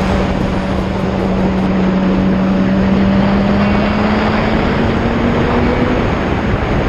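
A vehicle engine drones steadily under a loud rush of wind and road noise at cruising speed. The drone rises slightly in pitch, then drops away near the end.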